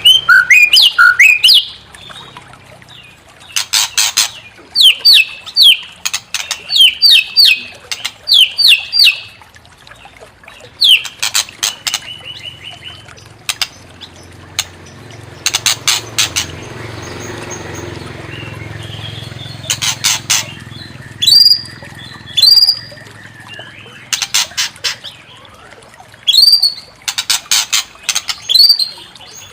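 White-rumped shama singing in agitated bouts: fast, harsh rattling chatter mixed with sharp rising and falling whistles, repeated every second or two with short pauses between phrases.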